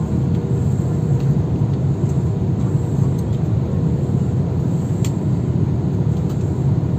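Steady airliner cabin noise: a deep, even rumble of the engines and airflow with a faint steady hum over it. A faint click about five seconds in.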